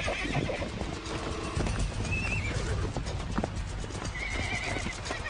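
Wild horses squealing and whinnying in short, high-pitched calls, three times, amid hoofbeats and scuffling as a stallion attacks a foal and mares try to stop him. Background music plays underneath.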